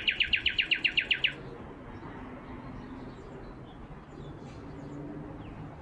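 A fast, even trill of bird-like notes, about ten a second and loud, stopping about a second and a half in; after it only a few faint, scattered high chirps.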